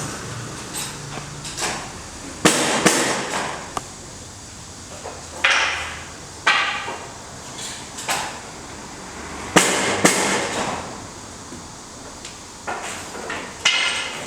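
Irregular knocks and clattering impacts, about a dozen spread unevenly, each ringing briefly.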